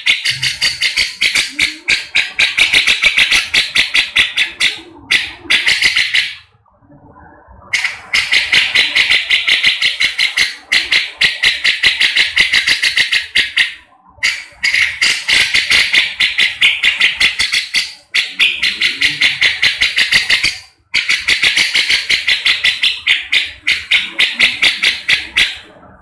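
Grey-cheeked bulbul (cucak jenggot) giving loud, rapid harsh chattering calls in long runs of several seconds, broken by a few short pauses.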